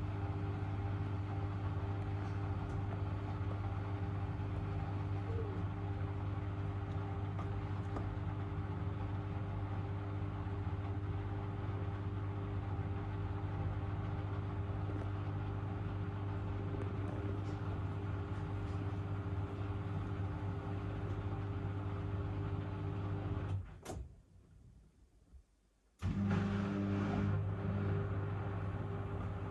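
Miele W1 front-loading washing machine running with a steady low hum and a few steady tones above it. The hum drops out for about two seconds near the end, then resumes.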